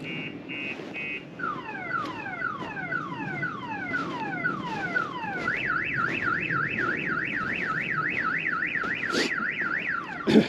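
Car alarm siren cycling through its tones: rapid steady beeps, then a run of falling sweeps at about two a second, then a fast up-and-down warble from about five seconds in. Two sharp knocks near the end.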